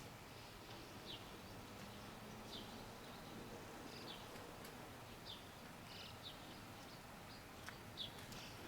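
Faint outdoor background with a small bird giving short, high chirps that fall in pitch, repeated every second or so.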